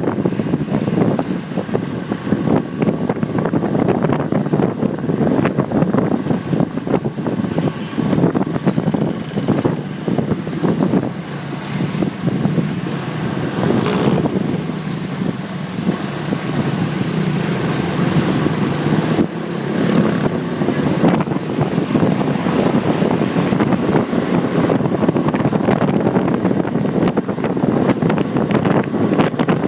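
A motorcycle riding in traffic, heard through a phone mounted on the bike: steady wind buffeting the microphone over the engine and the surrounding traffic.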